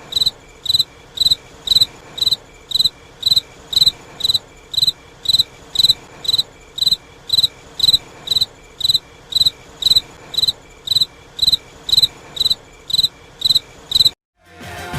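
Cricket chirping in a steady, even rhythm of about two short high chirps a second, cutting off abruptly near the end.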